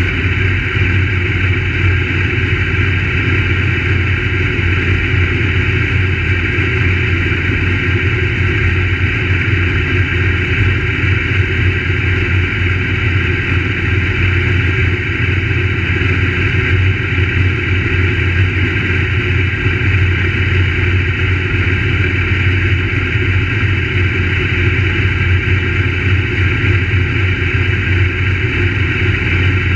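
Crate late model race car V8 engines running, a loud, steady drone with no clear rises or falls in pitch.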